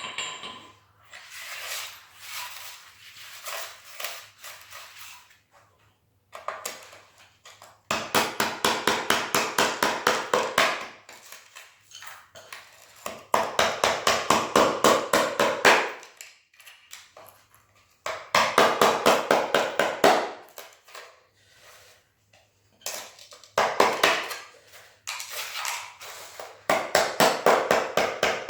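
Hammer tapping rapidly on a chisel, chipping out a cracked ceramic floor tile, in repeated bursts of about three seconds with short pauses between.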